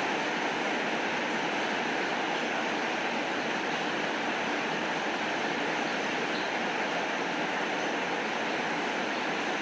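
Steady rainfall, an even unbroken hiss of rain with faint scattered ticks of drops.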